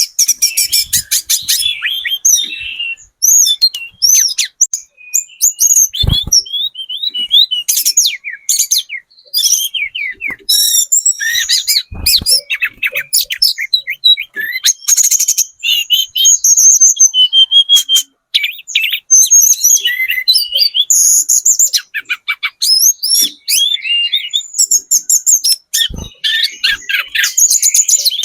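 Tledekan gunung, a small flowerpecker, calling nonstop: rapid sharp high ticks and short chittering trills, used as a lure call for caged birds. A few brief knocks are mixed in.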